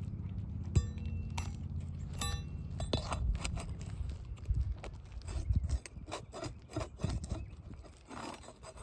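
Metal tools working under asphalt shingles at a roofing nail: three sharp metallic clicks with a brief ring in the first few seconds, then a run of irregular taps and scrapes. A low rumble runs underneath for about the first half.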